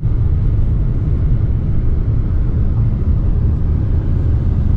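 Steady low rumble of a car driving, with engine and tyre noise on the road.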